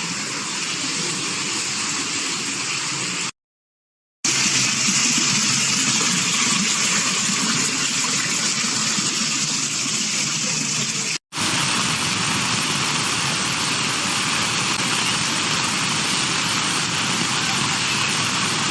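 Floodwater from an overflowing river rushing steadily, a constant hiss of moving water, broken by a second of silence about three seconds in and a brief dropout about eleven seconds in where the clips are cut.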